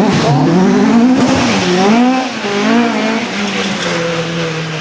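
Rally car engine driven hard on a stage, its revs rising and dropping several times, then holding a steady note that grows slightly quieter toward the end.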